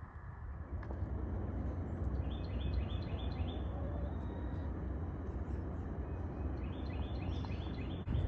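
A small bird singing two quick phrases, each a run of about six short, high, rising notes, over a steady low rumble.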